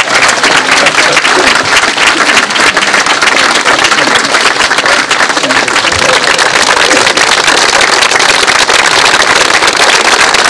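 Large outdoor crowd applauding steadily, many hands clapping at once.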